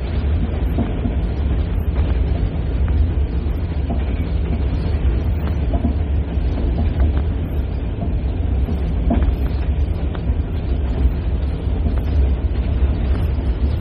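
Express passenger train passing through a station: a steady heavy rumble, with a few clicks of the wheels over rail joints.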